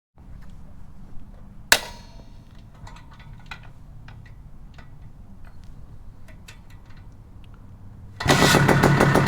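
A single sharp bang about two seconds in and a few faint clicks over a low hum, then about a second before the end the 1973 Penton/KTM Berkshire 100's two-stroke single starts running loudly with rapid, even firing.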